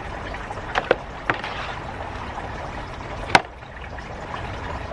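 Sharp knocks and clicks from handling potted snake plants: three close together in the first second and a half, then a louder one a little past three seconds, over a steady background hiss.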